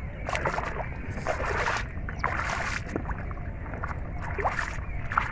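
Water splashing and sloshing in short bursts, about five times, as hands grope through shallow river water, over a steady low rumble.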